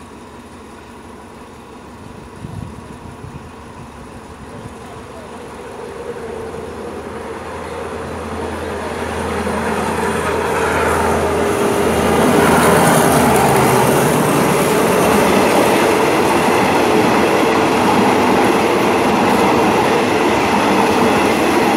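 Alsthom diesel-electric locomotive hauling a passenger train toward the station, its engine hum growing steadily louder over about twelve seconds. Then the passenger coaches roll past close by with a loud, steady rush of wheels on rail.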